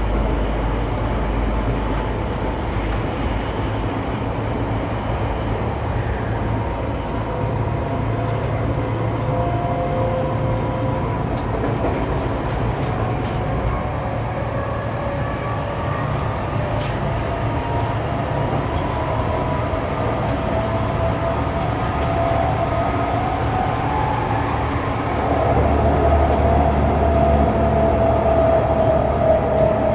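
Saitama Railway 2000 series electric train running between stations, heard inside the car: a steady rumble of wheels on rail with the traction motors' hum, whose pitch drifts. It gets louder and heavier about 25 seconds in.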